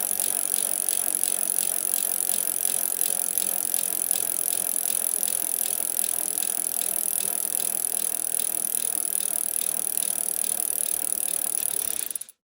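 Bicycle sound effect: a bicycle rolling along with a fast, even ticking and rattling that holds steady for about twelve seconds, then cuts off sharply near the end.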